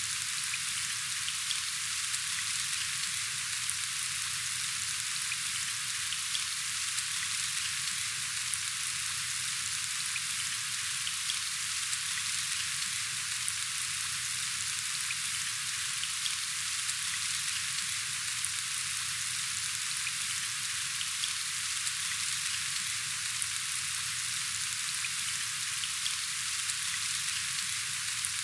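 Steady rain falling, an even hiss of many small drops with faint scattered ticks, unchanging throughout.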